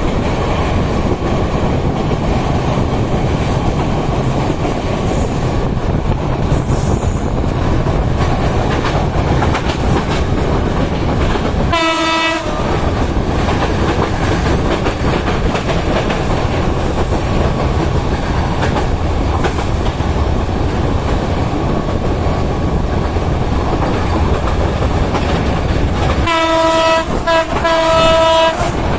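Passenger train running with a steady rumble of wheels on rails, heard from an open carriage window. The locomotive horn sounds once briefly about twelve seconds in, and again near the end as a run of blasts in quick succession.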